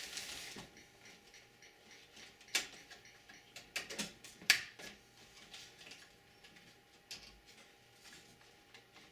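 Scattered clicks and taps of computer cables and plastic connectors being handled inside a desktop PC case, with a short rustle at the start. The loudest click comes about four and a half seconds in.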